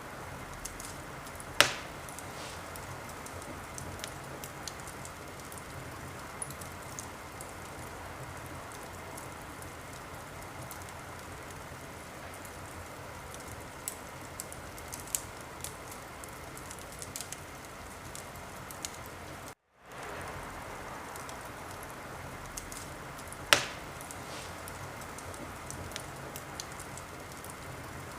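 Wood fire burning in a fireplace: a steady hiss with many small crackles and two loud sharp pops, one about a second and a half in and one near the end. The sound cuts out for a split second about two-thirds of the way through.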